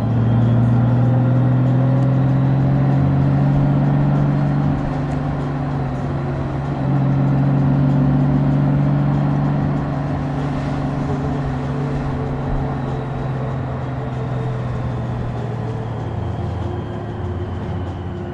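A 2023 Honda Gold Wing DCT's flat-six engine running on the move, with road and wind noise. The engine gets louder under throttle twice, during the first few seconds and again from about seven to ten seconds in, then settles to a steadier, quieter cruise.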